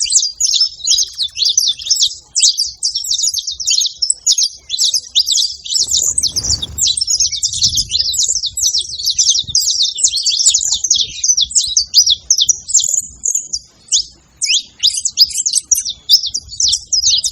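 Saffron finch (canário-da-terra) singing a long, fast, unbroken run of high chirping notes, with a short pause about fourteen seconds in. A soft low rumble sits under the song around six seconds in.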